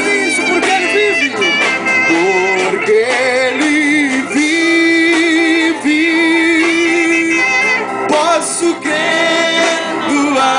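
Live band playing a worship song, with singing held in long wavering notes over the accompaniment.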